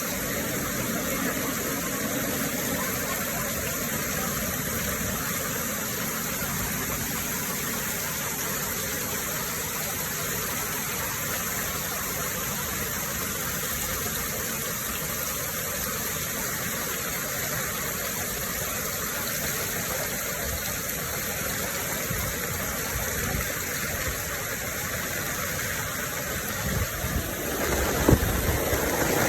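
Heavy rain pouring down steadily as an even hiss. Near the end it grows louder and lower, with a single knock.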